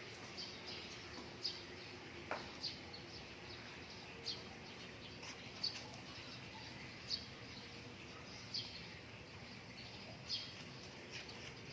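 A bird chirping: short high chirps repeating about every second and a half over a steady background hiss.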